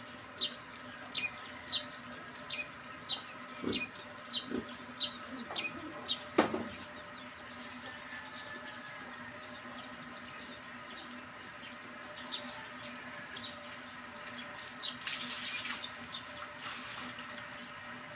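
A bird chirping, short high calls about twice a second that fade after about seven seconds. There is a sharp knock about six seconds in and a brief rush of hiss-like noise near the end.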